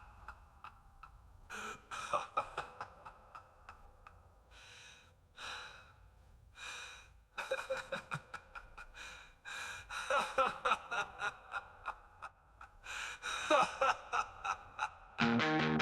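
Faint breath-like exhalations and scattered soft clicks, then a distorted guitar-driven metal track starts abruptly near the end.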